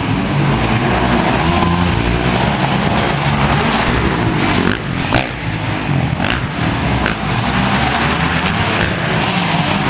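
Motocross dirt bike engine running loud and steady, with a few sharp clicks around the middle.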